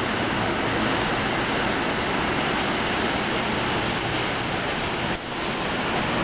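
NJ Transit commuter train cars rolling past close by: a steady rushing noise of wheels on rails, mixed with the hiss of rain.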